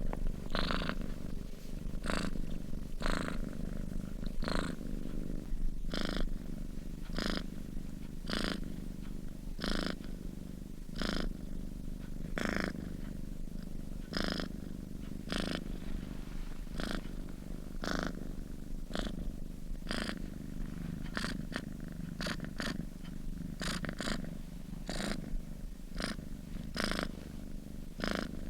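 Sleeping domestic cat purring steadily, pulsing about once a second.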